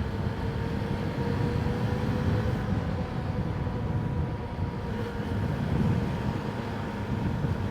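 Steady low rumble of a motorcycle ride picked up by a mic inside the rider's helmet: wind and engine noise, with a faint steady hum from the engine.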